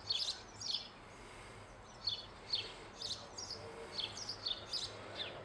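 A small bird chirping outdoors: short, high chirps that fall in pitch, repeated about twice a second, with a brief pause about a second in.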